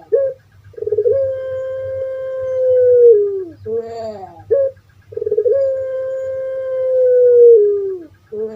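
Puter pelung dove singing its long call twice: a short broken note, then a long drawn-out note held at one pitch for about two and a half seconds that drops at the end.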